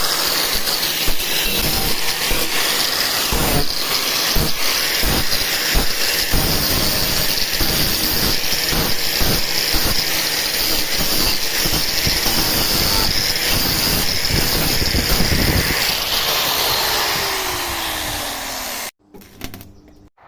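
A handheld power tool works on car body metal with a loud, harsh crackling hiss. Near the end it is let off: its whine falls steadily in pitch as it spins down, then the sound cuts off.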